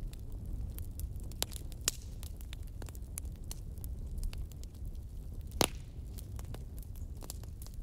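Wood fire crackling: a steady low rumble under irregular sharp pops and snaps, the loudest pop a little over five seconds in.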